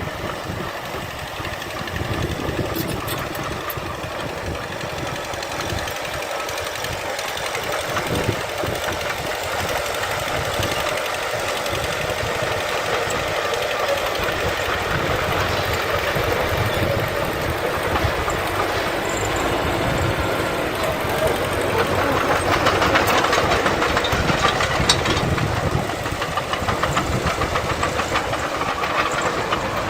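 Diesel engine of heavy earthmoving machinery running steadily under load, growing louder past the middle.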